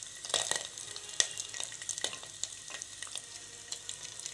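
Ghee sizzling in a metal pot as small coconut pieces fry and cashews and raisins are added: a steady hiss with scattered crackles and pops.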